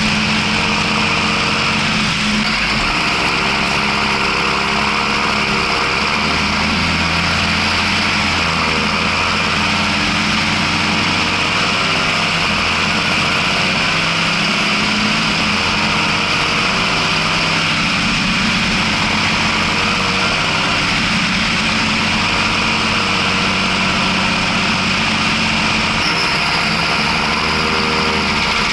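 John Deere 6620 tractor's six-cylinder diesel engine running steadily under load, pulling two loaded trailers. Its note shifts slightly a few times.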